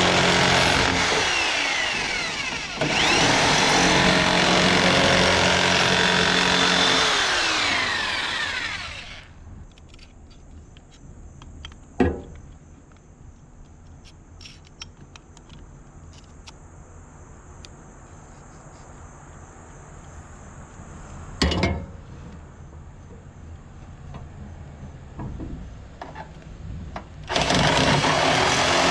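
A power tool cutting the hole for a bathroom exhaust fan, running loud for about nine seconds, stopping, then starting again near the end. In the quiet gap between there are two sharp knocks.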